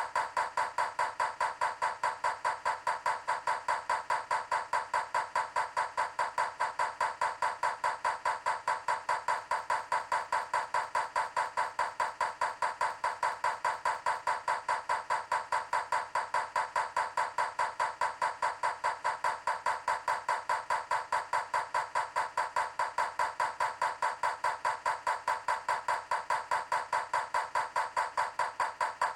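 Rapid, perfectly even knocking, about three strokes a second, unchanging throughout.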